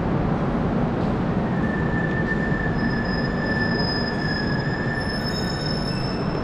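Yoga Express train rolling in with a steady rumble, and a thin high wheel squeal held for about four seconds in the middle.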